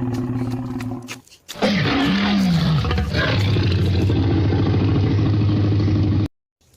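Dinosaur roar sound effects: a low growling roar in the first second, then a longer, louder roar that swoops in pitch before settling into a steady low rumble and cutting off suddenly.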